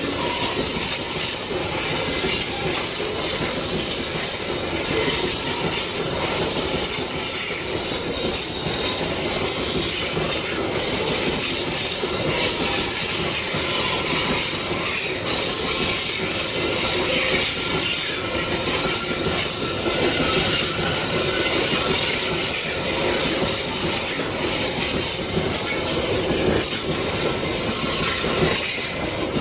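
Loaded open coal wagons of a long freight train rolling past on a curve: steady running of steel wheels on the rails with a constant high hiss.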